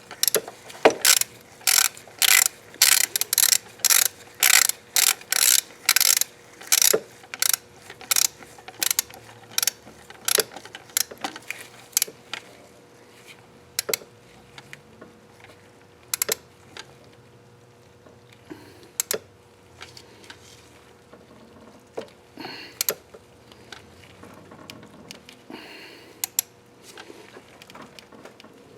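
Ratchet of a Duralast electronic torque wrench clicking as a bolt is run down. The clicks come quick and even, about two a second, for roughly the first twelve seconds, then thin out to occasional single clicks.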